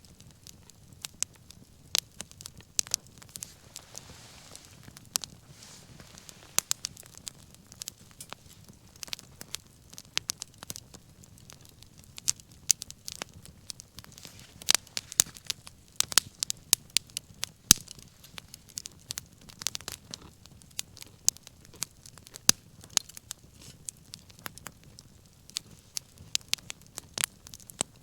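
Wood fire crackling: sharp irregular pops and snaps, thicker in the middle, over the soft low rush of the flames.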